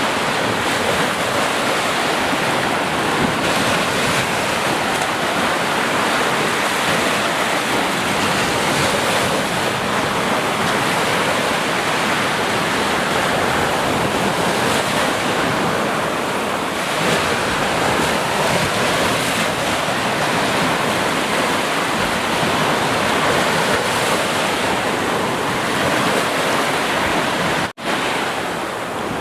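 Sea surf: a steady, continuous wash of ocean waves, broken by a sudden very short dropout near the end.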